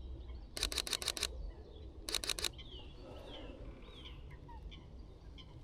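Sony A6700 camera shutter firing in two rapid bursts of continuous shooting, with a pause of under a second between them. Birds call faintly afterwards.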